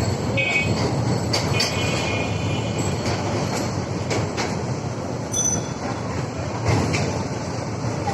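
Passenger train running along the track: a steady rumble with scattered clicks from the wheels, and a high-pitched tone for about a second, just under two seconds in.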